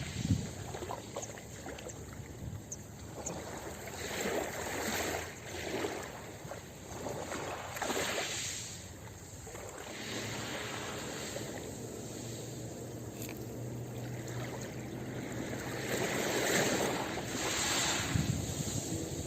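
Ocean waves breaking on a beach, the surf swelling and fading in washes a few seconds apart, with a calmer stretch in the middle.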